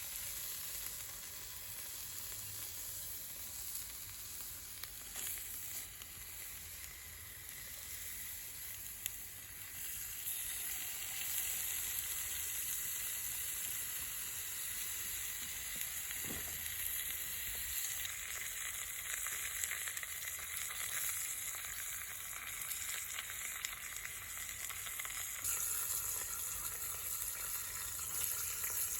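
Food frying in a pan, a steady sizzle that grows louder about ten seconds in.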